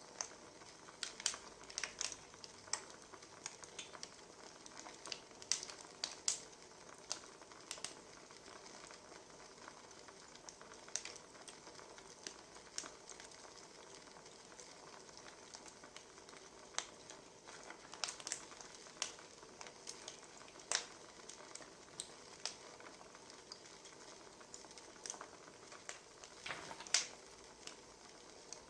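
Wood fire crackling: a steady soft hiss with irregular sharp pops and snaps of burning firewood, the loudest pop near the end.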